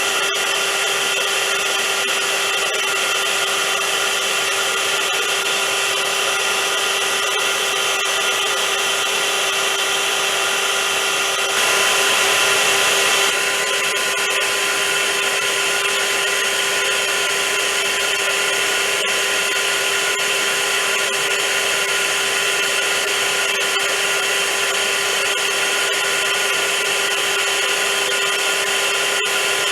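Vacuum cleaner running steadily: a constant motor whine over rushing air. About twelve seconds in, the sound grows briefly louder and hissier for a couple of seconds before settling back.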